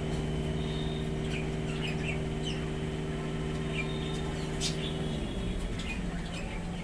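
A bulbul giving short, scattered chirps. Under them a steady low hum runs and stops about five seconds in.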